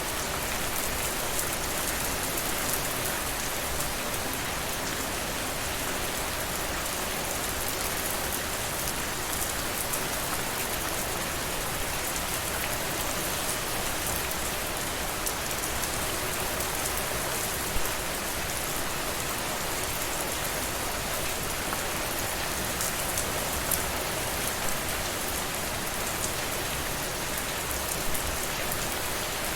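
Steady rain falling on a surface, an even hiss dotted with fine, sharp drop ticks and the odd louder drop.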